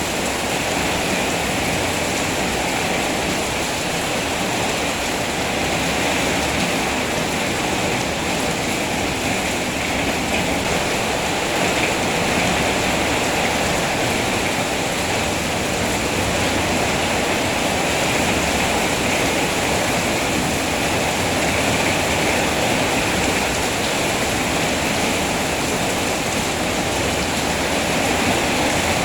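Rain falling steadily: a dense, even hiss with no separate drops, tones or thunder standing out.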